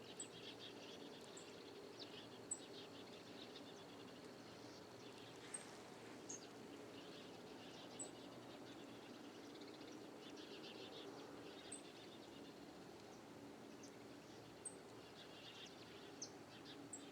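Faint riverside ambience of birds chirping and calling, with a short, sharp, high chirp repeating every two or three seconds over a steady low background hush.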